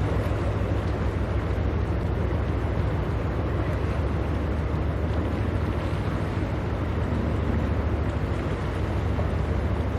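Steady low rumble of a ship's engines, unchanging throughout.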